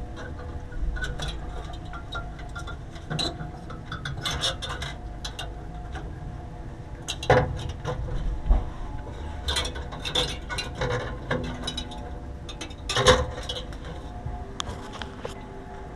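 Irregular mechanical clicks and clatter, a few of them louder knocks, over a steady hum.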